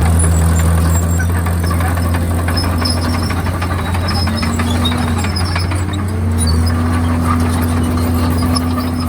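Komatsu D51PX bulldozer's diesel engine running under load, its note dipping and recovering a couple of times, with faint high squeaks and clinks over it.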